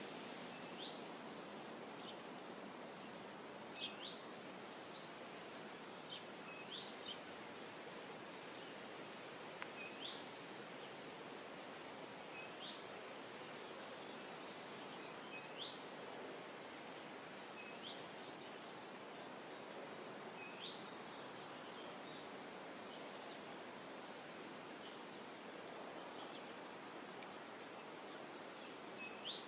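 A small bird gives short rising chirps, one every two to three seconds, over a steady soft hiss of outdoor ambience.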